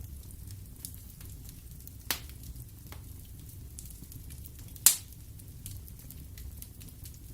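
Wood fire burning in a fireplace: a low steady rumble of flames with small crackles, and two sharp pops of the wood, about two seconds in and, louder, just before five seconds in.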